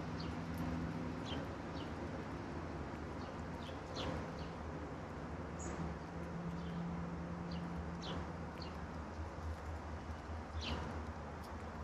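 Backyard songbirds giving short, scattered chirps and calls, over a steady low hum.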